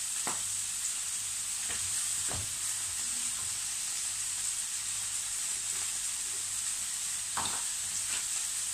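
Sliced vegetables sizzling in a frying pan over a gas flame, a steady high hiss, with a few light knocks and clicks now and then.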